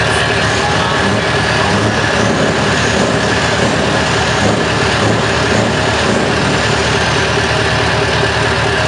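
Scania R620's V8 diesel engine running steadily at idle, a heavy low rumble with no revving.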